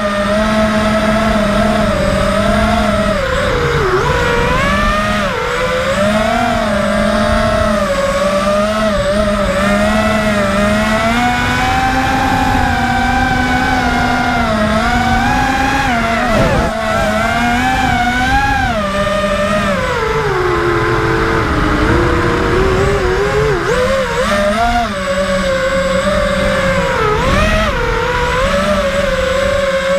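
FPV racing quadcopter's brushless motors whining, their pitch rising and falling constantly with the throttle. The pitch drops sharply about four seconds in and sinks lower for a couple of seconds past the two-thirds mark before climbing again.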